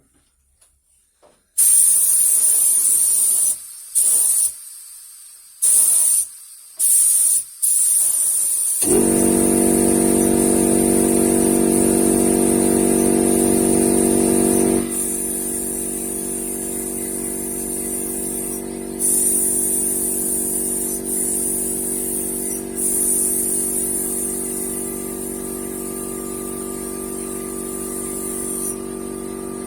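Air-fed paint spray gun hissing in short bursts as the trigger is pulled and let go, then held for longer spells. About nine seconds in, an air compressor's motor kicks in with a sudden start and keeps running steadily under the spraying.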